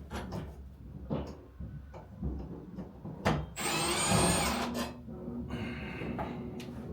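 Cordless drill-driver spinning up in a loud whining burst of about a second, with a quieter run near the end, as it is used on the light fixture's screws. A few clicks and knocks come before it.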